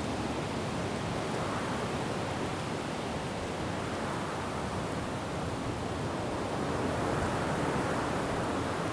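Wind blowing through forest trees: an even rushing noise that swells slightly over the last couple of seconds.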